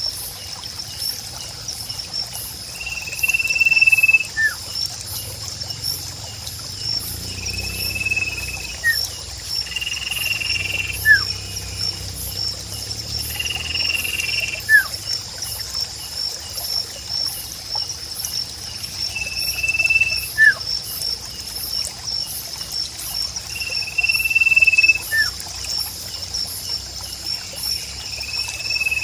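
Birdsong over a nature ambience: a held whistled note about a second long every few seconds, each followed shortly by a brief falling note. Underneath runs a steady high trill of insects and a low trickle of water.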